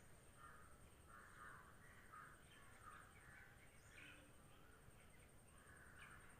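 Faint birds chirping: a string of short calls, one every half second or so.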